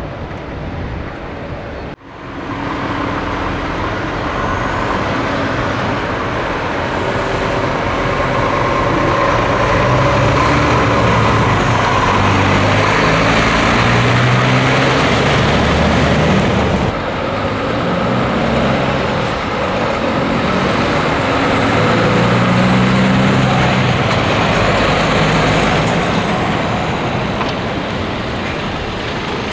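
Scania truck engine running under load on the road, its pitch climbing and dropping back with a sharp break about two seconds in and a drop about seventeen seconds in. A faint high whistle rises and falls above it.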